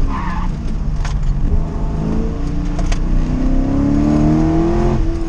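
1979 Corvette's V8 engine heard from inside the cabin under hard driving. The pitch drops near the start as it comes off the throttle. It then climbs in a long, steady rise in revs under acceleration over the last few seconds.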